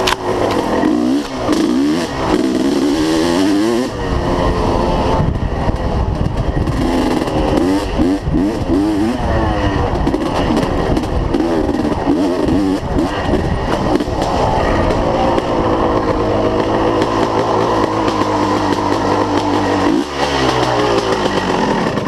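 Dirt bike engine running loud, its pitch rising and falling again and again as it revs up and eases off, holding steadier for several seconds near the end.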